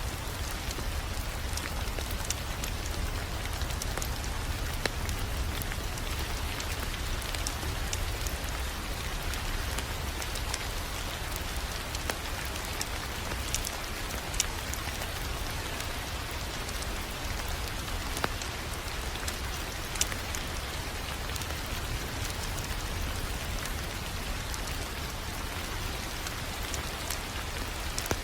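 Wood fire crackling: a steady hiss with a low rumble beneath it, broken by frequent small snaps and occasional louder pops.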